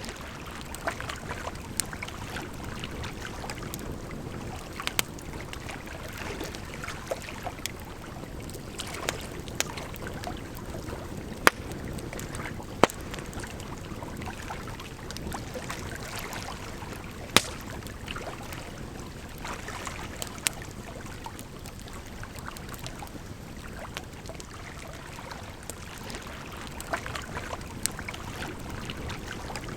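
Campfire crackling, with irregular sharp pops and snaps, over a steady rush of water.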